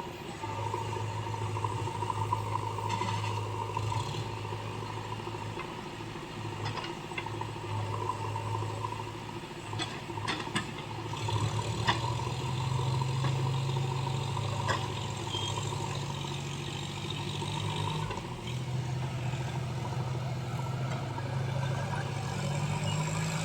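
Heavy diesel engine running steadily; its revs rise about halfway through and hold higher, with a few metallic clanks and rattles.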